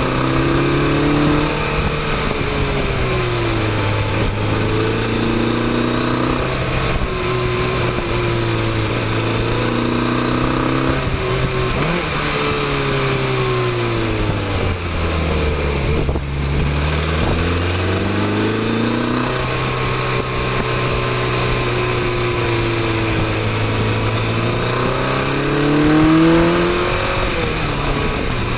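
Motorcycle engine under way over a steady rush of wind and road noise. Its pitch steps with gear changes, sinks as the bike slows around the middle, then climbs steadily as it accelerates, dropping at a gear change near the end.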